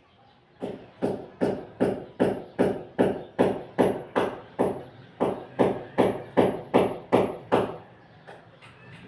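A steady percussive beat, about two and a half sharp strikes a second, each with a short ring and a crisp high tick, fading out near the end.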